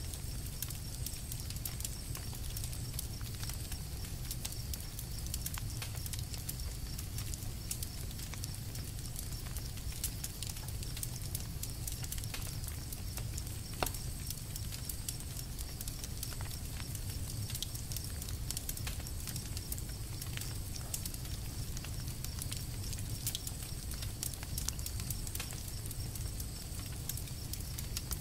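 Campfire crackling: a steady stream of small snaps and pops over a low rumble, with one sharper pop about halfway through.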